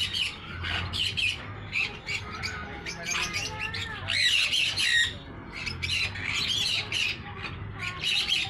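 Many aviary parrots squawking, harsh overlapping calls coming in quick bursts with brief pauses between them.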